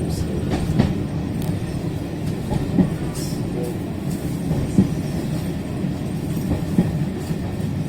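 Railway carriage running along the track: a steady low rumble, with a short knock from the wheels about every two seconds.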